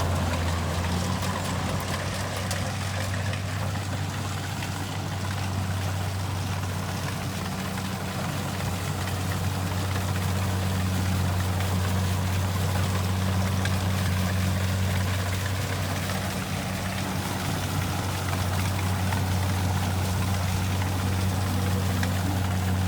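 Kubota rice combine harvester's diesel engine running steadily: a constant low drone under an even wash of machinery noise.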